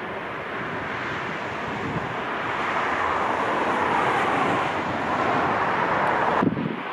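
Strong wind rushing over the microphone, a steady noise that swells and eases, then cuts off suddenly near the end.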